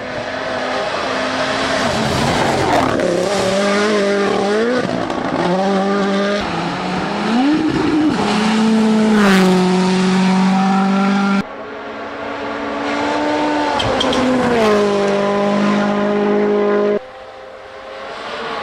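Rally car engine at full throttle, its pitch climbing and dropping again and again through the gears, over tyre and road noise. The sound cuts abruptly about eleven seconds in and again near the end as it switches to another run.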